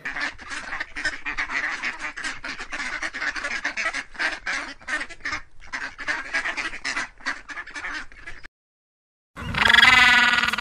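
Duck quacking in a rapid, raspy run of many short calls that cuts off abruptly. After a brief gap, a loud, drawn-out penguin call begins near the end.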